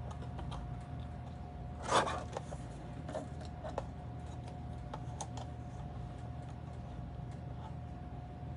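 Small clicks and taps of paper strips and a small Fiskars paper trimmer being handled, with one louder scrape about two seconds in as the trimmer cuts the end off a sentiment strip. A faint steady hum runs underneath.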